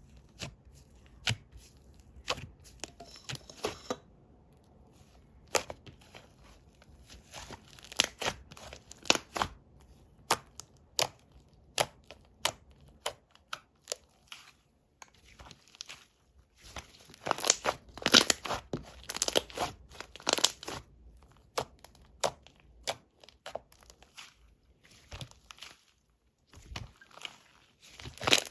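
Slime being squeezed and pulled by hand, a vanilla ice-cream slime with a chocolate topping, giving irregular crackles, pops and crinkling clicks. They come thicker and louder in a run a little past the middle.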